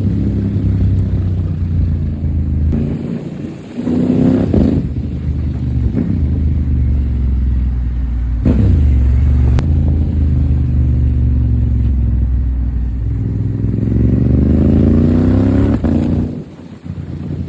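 Honda Africa Twin 1100's parallel-twin engine through an Akrapovic exhaust, accelerating on the road: the revs climb and drop several times with gear changes, then fall away near the end.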